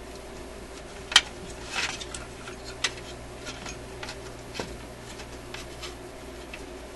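A screwdriver being worked against a small screw and the metal tube shield can in a radio chassis, making sharp metallic clicks and scrapes as the tip is fitted into the screw. There is one sharp click about a second in, a short scrape just after, and a few lighter clicks later, over a steady low hum.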